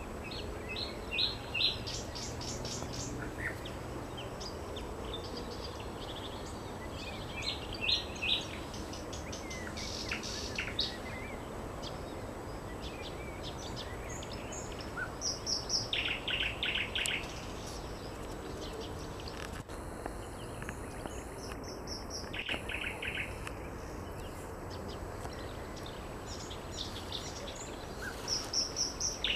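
Nightingale singing: short phrases of rapid repeated notes, separated by pauses of a few seconds, over a steady background hiss.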